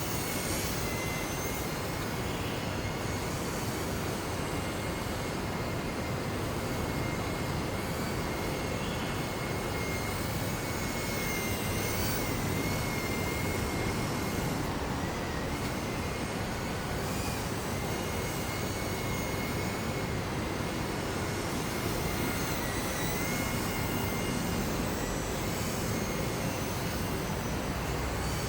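Strong wind buffeting the microphone with a steady rush, over the thin whine of a JJRC M06 RC plane's motor and propeller, which wavers up and down in pitch as the plane turns and changes throttle.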